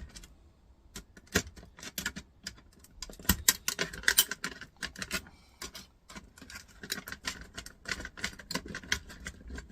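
Irregular light metallic clicks and taps of small hand tools and loose metal parts being worked while a laptop docking station is dismantled. The clicks are sparse at first and come thicker from about three seconds in.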